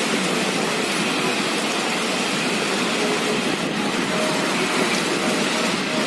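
Steady, dense rush of a rain and wind storm, without let-up.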